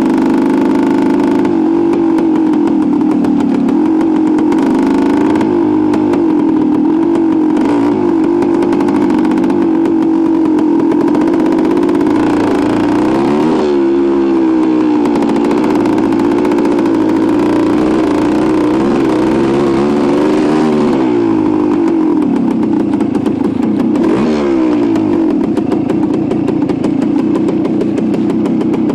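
1973 Suzuki TS250's single-cylinder two-stroke engine running steadily under way, its note dipping and climbing back a few times in the second half.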